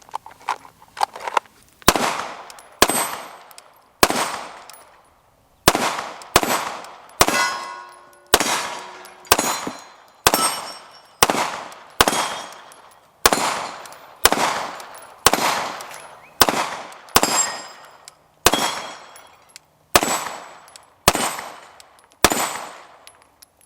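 SIG Sauer P320 M18 9mm pistol fired in a steady string of about twenty shots, roughly one a second, each trailing off quickly, after a few faint clicks at the start.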